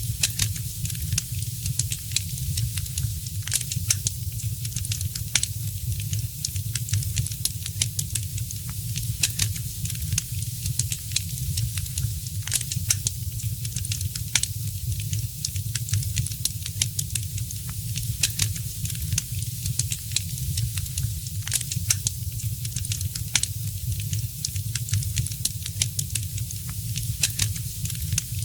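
Wood fire crackling in a fireplace: frequent irregular sharp pops and snaps over a steady hiss and a low rumble.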